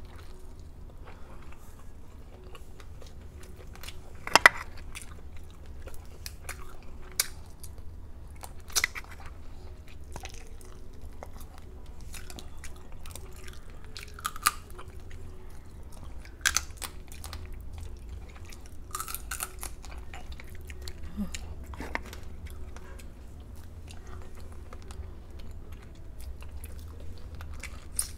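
Close-up eating of garlic butter shrimp and crab: chewing and biting, with scattered sharp crunches and clicks, the loudest about four and a half seconds in and again around nineteen seconds. A faint steady hum lies underneath.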